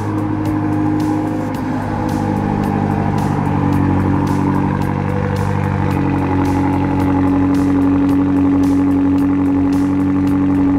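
A car engine idling steadily, under background music with a regular beat.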